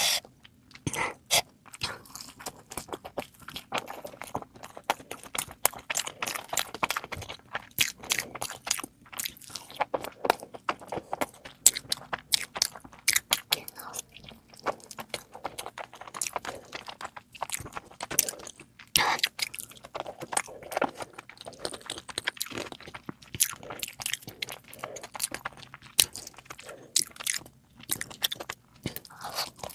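A person eating: chewing and biting food, with many irregular crunches and clicks.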